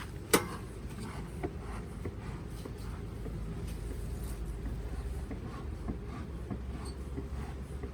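Wooden beehive frames and hive parts being handled: one sharp knock about a third of a second in, then scattered lighter taps and clicks, over a low steady rumble.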